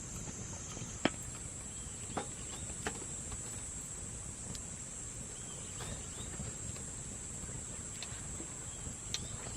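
Wood campfire crackling, with a few sharp pops over a low rumble of burning, against a steady high drone of summer insects.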